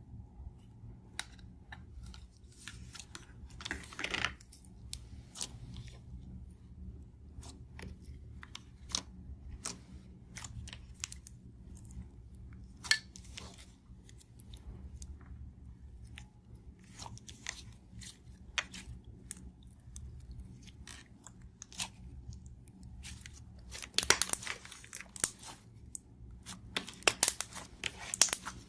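Slime-making materials being handled: scattered small clicks and crackles over a low hum, with louder clusters of crackling about four seconds in and again near the end.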